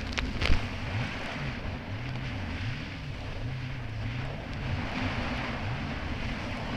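Kawasaki Ultra 300X jet ski engine running, its pitch rising and falling as the throttle changes over the chop, under a rush of wind and water. A short thump comes about half a second in.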